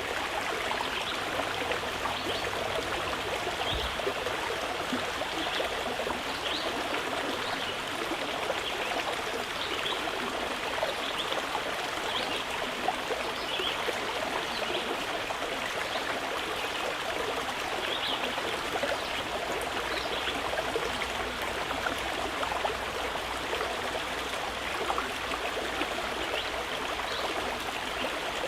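Mountain river flowing steadily, an even rushing and babbling of water.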